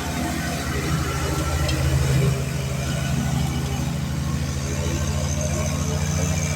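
Lawn mower engine running steadily, with a brief swell about two seconds in.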